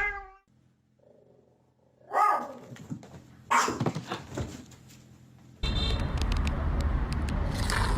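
A pet's short pitched cry about two seconds in, falling in pitch, and another sudden cry a little later, followed from about halfway by a steady rushing background noise with a few clicks.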